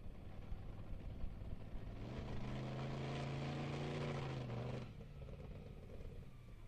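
Monster truck engine heard from a distance, revving up about two seconds in and held at high revs for roughly three seconds, then dropping off abruptly as the throttle is lifted. Low rumble underneath.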